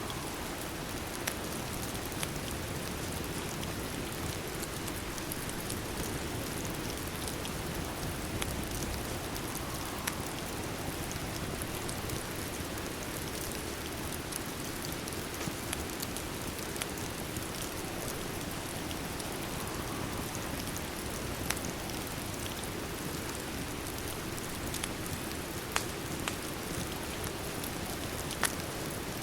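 Steady rain with a few sharp crackles from a fireplace scattered through it.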